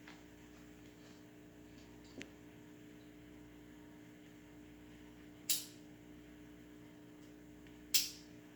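A steady low electrical hum with a faint click, then two sharp, short hissing or rattling strikes about two and a half seconds apart, each dying away quickly.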